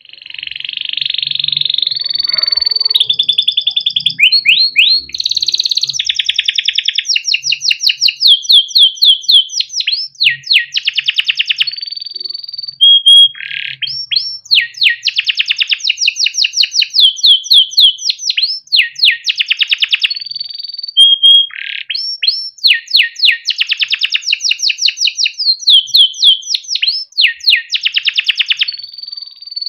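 A yellow domestic canary singing a long, unbroken song. It strings together fast rolling trills, chirps and short held whistles in phrases that change every second or two.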